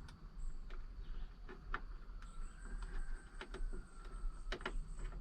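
Scattered light clicks and taps of plastic wiring connectors and trim clips being handled and pushed into place inside a truck door, about a dozen irregular ticks with a couple of sharper snaps a little after the halfway point.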